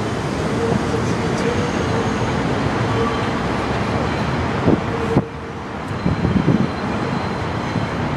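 New York City subway train running on elevated track: a steady rumble of wheels on rail with a faint held tone. The noise drops off suddenly about five seconds in, followed by a few clanks.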